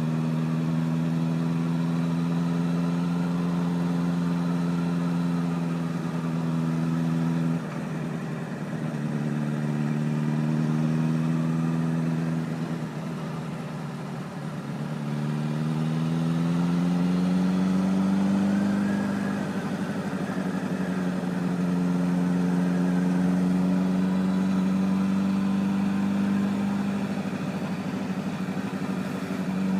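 Honda CBR1000RR inline-four engine running at steady low revs on the move. The revs drop off suddenly about seven seconds in, sag further a little later, then climb smoothly around fifteen seconds in and hold steady again.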